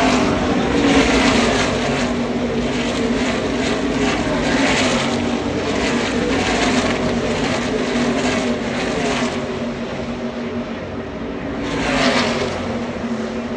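NASCAR Craftsman Truck Series race trucks' V8 engines as the field streams past. Engine pitch falls as each truck goes by, over a steady engine drone, with a last loud pass about twelve seconds in.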